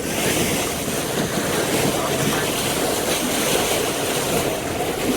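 Steady wash of water and wind buffeting the microphone on a boat at sea.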